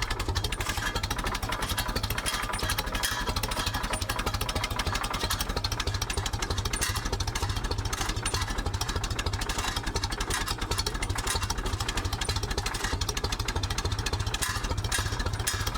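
Ferguson TED 20 tractor's four-cylinder TVO engine idling slowly and evenly with no silencer, a steady run of exhaust pulses. A homemade flap at the top of the exhaust is tapping along with it.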